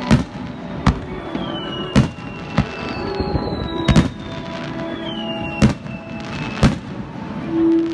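Aerial firework shells bursting with sharp bangs about once a second, six in all, with three high whistles that fall slowly in pitch between them. Music plays steadily underneath.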